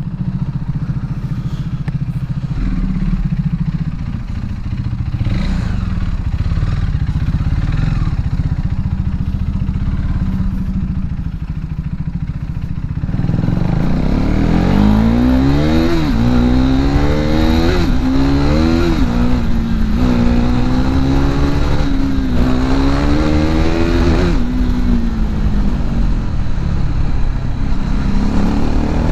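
KTM RC 390's single-cylinder engine running at low revs, then from about halfway accelerating hard through the gears: the pitch climbs several times, dropping at each upshift, before settling into a steadier cruise near the end.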